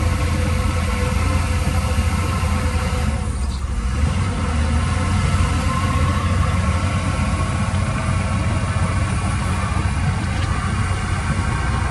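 Heavy diesel engine running steadily with a deep, even hum, dipping briefly about three and a half seconds in.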